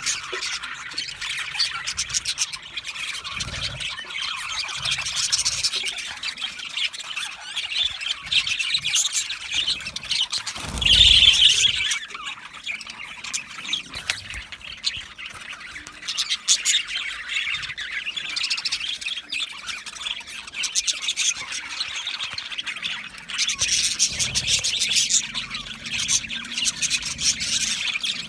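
Budgerigars chirping and chattering continuously, a dense run of short calls and squawks. About a third of the way in there is a louder burst of squawking with a brief low thump under it.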